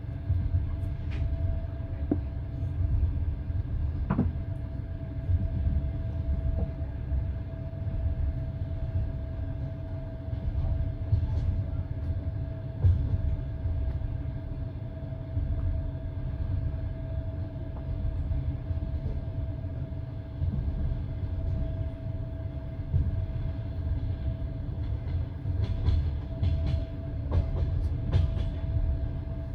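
Passenger train running at speed on the line, heard from inside the carriage: a steady low rumble of wheels on rails with a faint steady whine. A few sharp clicks come near the end.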